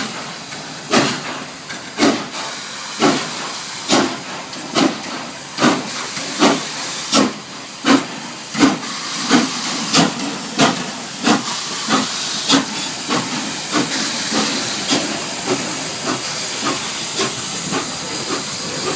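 Nickel Plate Road no. 765, a 2-8-4 Berkshire steam locomotive, chuffing as it pulls away: sharp exhaust beats over a steady hiss of steam. The beats quicken from about one a second to about one and a half a second as the engine gathers speed, and they grow softer in the second half.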